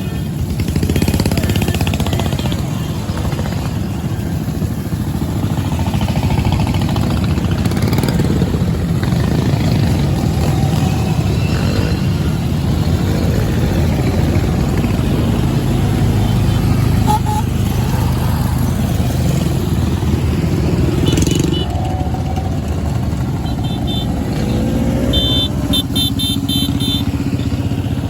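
Vintage motorcycle engines running steadily. Near the end there is a short run of high-pitched beeps.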